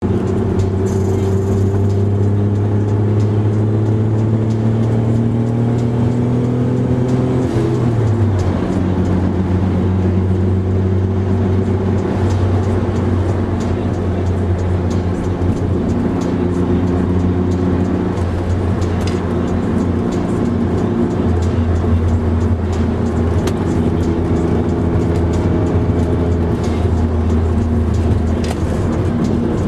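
Car engine heard from inside the cabin while lapping a circuit, rising steadily in pitch under acceleration, then dropping sharply at a gear change about eight seconds in, after which it runs on at a fairly even pitch with small changes.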